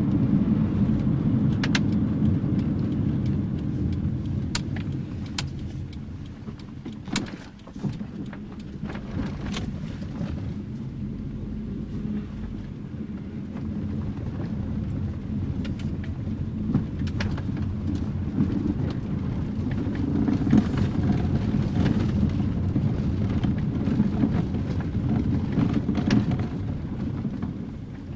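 1984 Nissan N12's carburetted 1.5-litre four-cylinder running, a low rumble that falls away a few seconds in and builds back up over the next ten seconds or so. Scattered sharp clicks and knocks are heard over it.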